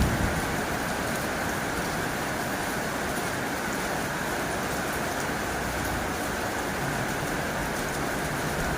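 Heavy rain falling on a tin roof, a steady, even hiss and patter. The tail of a low thunder rumble dies away in the first moment.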